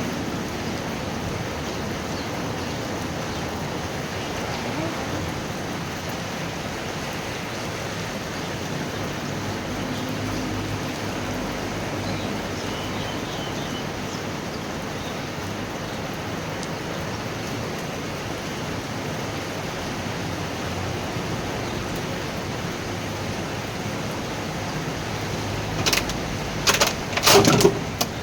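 Steady hiss of heavy thunderstorm rain, even in level throughout. A few sharp, loud knocks come close together near the end.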